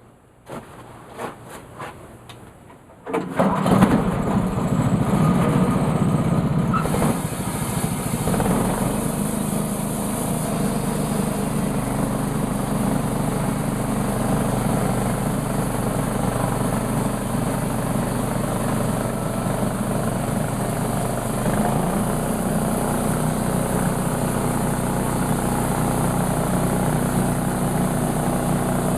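A few light knocks, then about three seconds in a sawmill's engine starts up and keeps running steadily, louder for the first few seconds before it settles.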